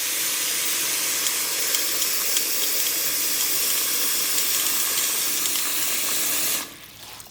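Kitchen tap running a steady stream of water into a pot, filling it for soup. The flow cuts off abruptly near the end.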